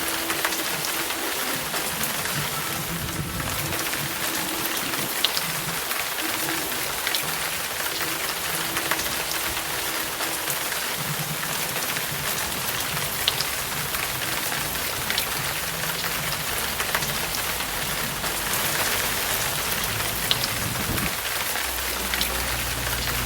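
Steady rain falling, an even hiss with scattered sharp drop ticks. A low rumble comes in near the end.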